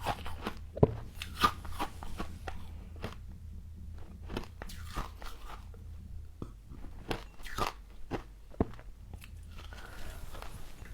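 Close-up biting and chewing of crisp frost: irregular sharp crunches, the loudest about a second in, over a faint low hum.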